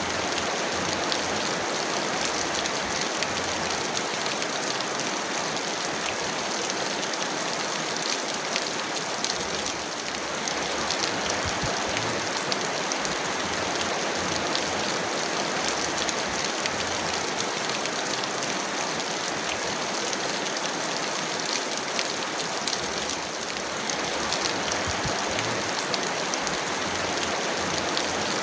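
Steady heavy rain: a dense, even hiss with fine drop patter through it. It dips slightly twice and then carries on.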